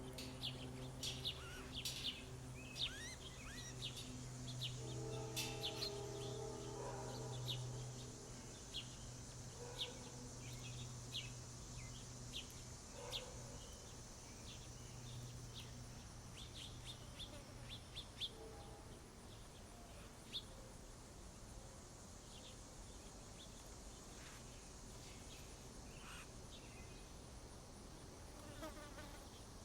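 Summer feeder ambience: insects buzzing, with a low hum that fades out about halfway through, and small birds chirping in short repeated notes.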